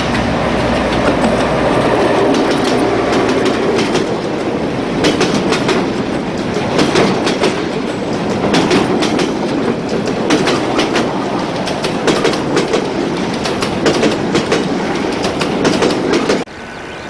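Train wagons rolling past, their wheels clicking over the rail joints in a steady clickety-clack over a rolling rumble. The sound cuts off suddenly near the end.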